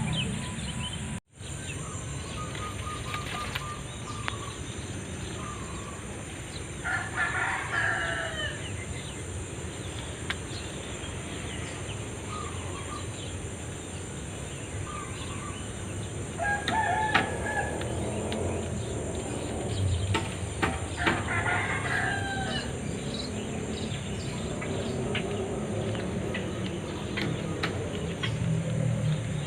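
Birds calling in three short bursts several seconds apart, fowl-like calls, over a steady high-pitched buzz.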